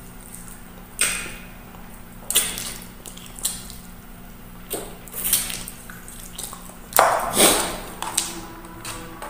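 Close-up eating sounds: wet chewing and lip smacks at irregular intervals as mouthfuls of rice are eaten by hand. A denser run of smacks comes about seven seconds in.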